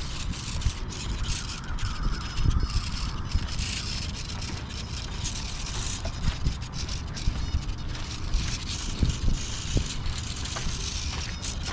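Wind rumbling on the microphone while walking, with a few soft knocks and steps scattered through.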